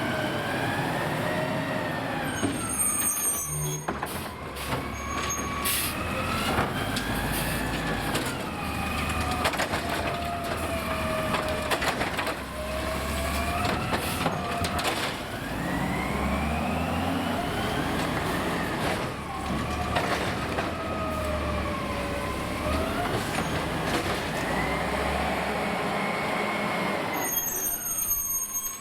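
Autocar garbage truck with a New Way automated side-loader body working: the diesel engine revs up and down with a whine that rises and falls each time the hydraulic arm cycles. Sharp bangs come several times as the arm slams and shakes recycling carts against the hopper.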